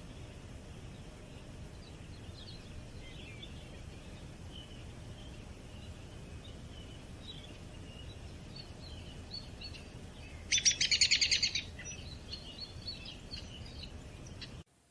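Birds chirping and calling with many short high notes, over a low steady rumble. About ten seconds in, one much louder rapid trill lasts about a second.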